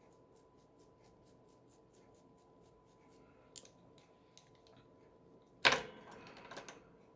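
Faint, rapid, even ticking as the bristles of an old toothbrush are flicked to spatter white gouache paint onto paper. About two thirds of the way through comes one brief, louder rustle or clatter.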